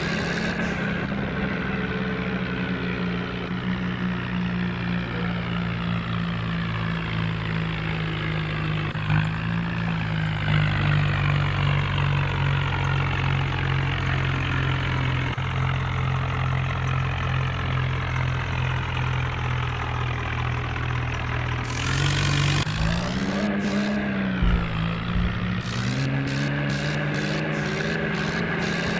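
Tractor engine running steadily. Its pitch dips and rises briefly near the end, with a few sharp clicks.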